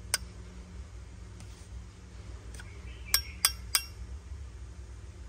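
Brass Zippo lighter cases clicking and clinking as they are handled, with three sharp metal clicks in quick succession a little past halfway. A low steady hum runs underneath.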